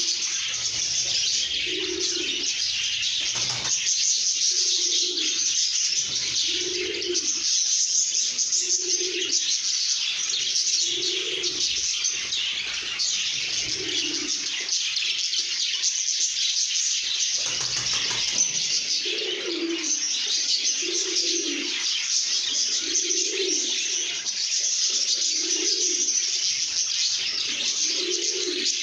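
A flock of lovebirds chirping and twittering continuously. Under it, a low cooing call repeats about once a second, falling silent for a few seconds just past the middle.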